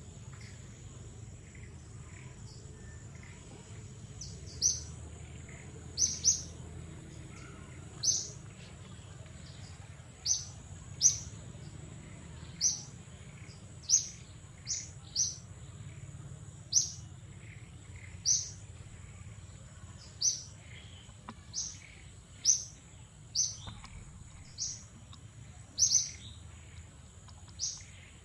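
A bird chirping over and over: short, high, downward-falling chirps, roughly one every second or so, starting a few seconds in. A steady high-pitched drone runs underneath.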